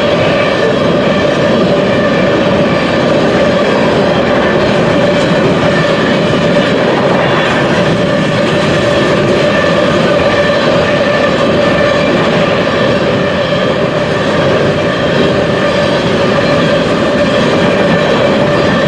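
Freight train rolling past: a steady, loud rumble of cars on the rails with a constant ringing tone over it.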